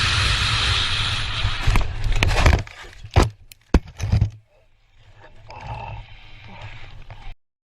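Dash-cam recording of a vehicle collision: steady road rumble, then a run of loud bangs and thuds between about two and four seconds in, then much quieter.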